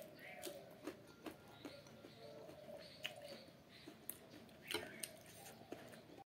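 A person quietly chewing a mouthful of pork and Maggi noodles, with scattered soft clicks of a metal spoon against the bowl as it scoops more, over a faint steady hum.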